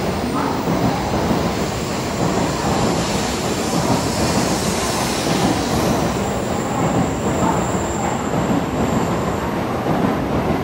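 N700-series Shinkansen train pulling out past the platform: a steady rolling rumble and rush of air as the cars slide by. A thin high whine rides over it from about two seconds in until near the end.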